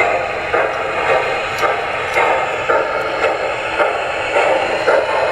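O scale model train running on the layout: a steady mechanical running noise with a regular beat about twice a second.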